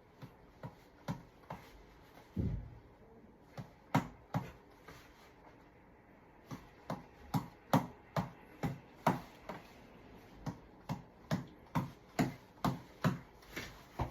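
Tap ball on a long elastic cord being punched again and again: sharp slaps, a few scattered ones and a heavier thump about two and a half seconds in, then a steady run of about two to three hits a second through the second half.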